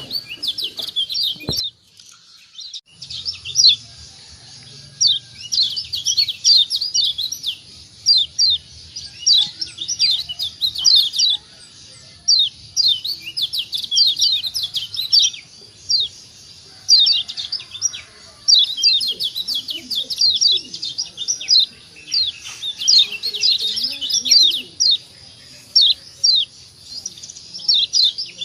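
Kecial kuning (Lombok yellow white-eye, a Zosterops) singing its fast, high-pitched twittering song. It comes in repeated phrases of rapid falling notes with short pauses between them.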